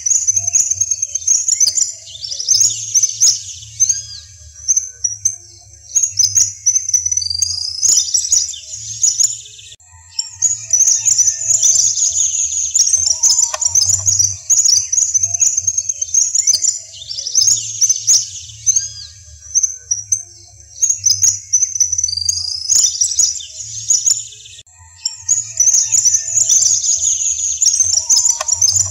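Small birds chirping and twittering in dense high-pitched bursts every few seconds, with short gaps between them and a few quick falling whistle notes.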